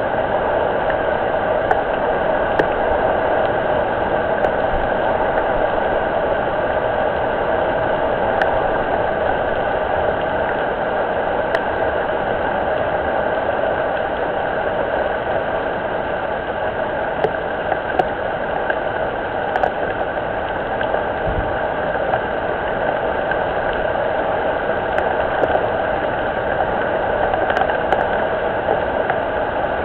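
Steady rain falling on and around a pond, an even hiss with scattered sharper ticks of single drops.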